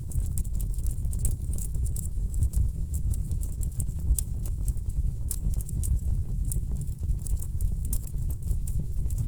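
Wood logs burning in a fireplace: a steady low rumble with frequent, irregular crackles and sharp pops.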